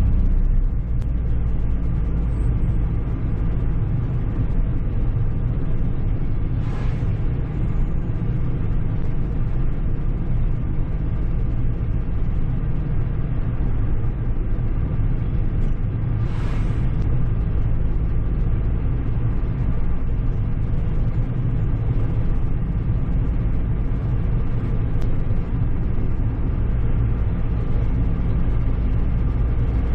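A car's engine and road noise heard from inside the moving car: a steady low drone, with two brief rushing swells about seven and sixteen seconds in.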